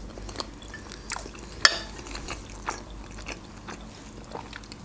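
Close-miked chewing of a bite of cabbage roll: soft wet mouth smacks and clicks, with one sharper click about one and a half seconds in. A fork is set down on a ceramic plate.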